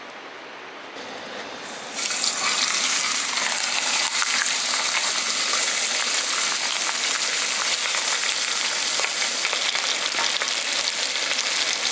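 Food frying on a hot griddle or pan. About two seconds in it bursts into a loud, steady sizzle with fine crackling, described as too loud.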